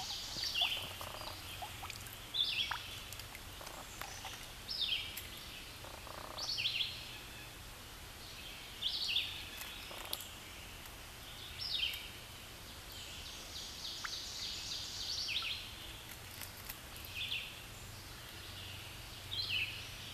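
A songbird singing short, high phrases that fall in pitch, repeated over and over about every two to three seconds, over a steady background hiss.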